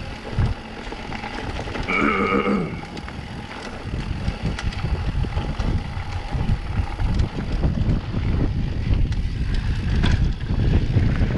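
Mountain bike rolling downhill over a rough dirt trail: an uneven low rumble and rattle that grows louder a few seconds in, with wind buffeting the microphone. A brief pitched sound about two seconds in.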